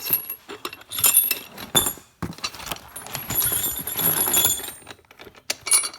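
Steel parts of an engine load leveler clinking and rattling as it is handled, with irregular knocks and clanks.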